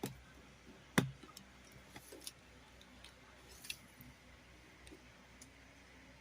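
Small toys being handled, giving scattered light clicks and taps with one sharper click about a second in.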